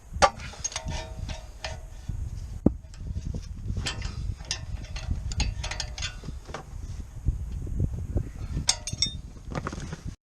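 Hand tools and metal car parts clinking and knocking during mechanical work: an irregular run of sharp metallic clicks and knocks, some ringing briefly.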